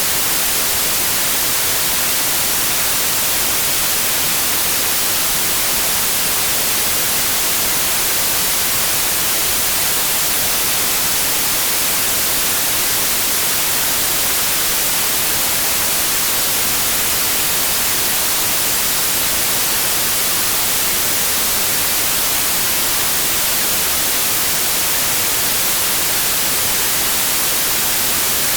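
Steady white noise: an even, unchanging hiss, strongest in the treble, used as a sleep aid for colicky babies.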